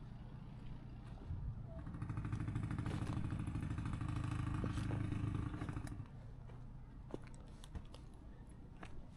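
An engine running steadily with a fast, even pulse, starting about a second in and stopping about six seconds in.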